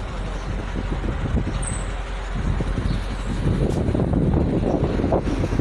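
Gusts of strong wind buffeting the microphone: an irregular low rumble over a steady hiss, growing louder about halfway through.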